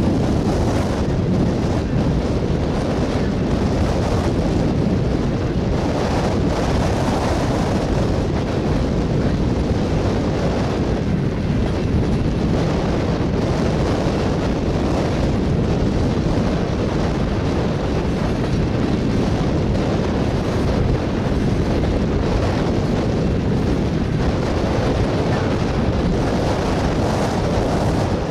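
Tank cars of a freight oil train rolling past, a steady rumble of wheels on rail mixed with wind buffeting the microphone.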